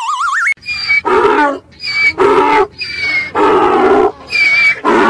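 Donkey braying: about four hee-haws in a row, each a high-pitched 'hee' followed by a lower 'haw'. A rising, warbling whistle sound effect ends about half a second in.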